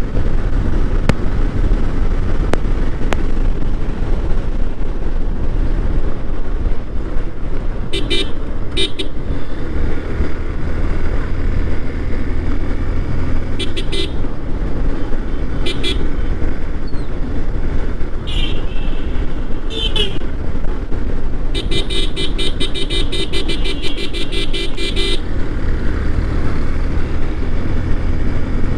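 Yamaha Fazer motorcycle running at road speed with wind rush, while horns honk several times: short blasts here and there, then a rapid string of honks lasting about four seconds, about three-quarters of the way through.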